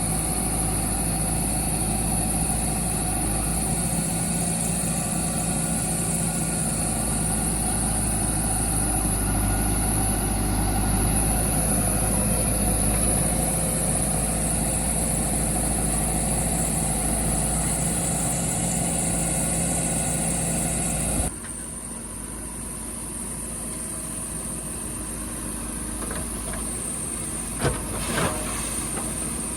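Heavy diesel engine running steadily. About two-thirds of the way through the sound drops suddenly to a quieter engine running, and a couple of short knocks come near the end.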